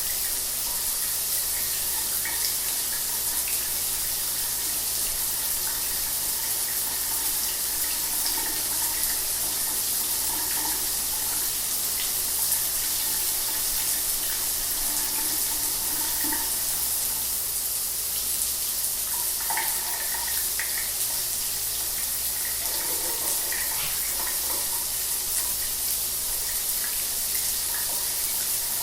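Shower water running steadily, an even hiss of spray with small splashes.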